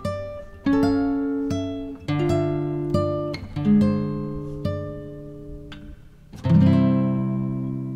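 Background music on acoustic guitar: single picked notes, each ringing and fading, with a fuller strummed chord about six and a half seconds in.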